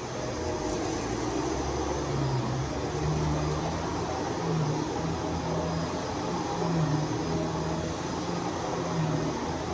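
Vacuum cleaner running steadily, with a low hum in its note that comes and goes every second or two.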